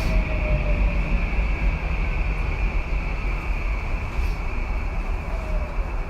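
Running noise of a Tokyu 2020 series electric train heard from inside the car: a steady rumble of wheels on rail with a high hiss over it, and a faint falling motor whine.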